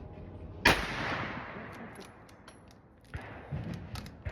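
A single loud rifle shot from a .350 Legend rifle, its report echoing and fading over about two seconds, followed about three seconds in by a second, quieter shot.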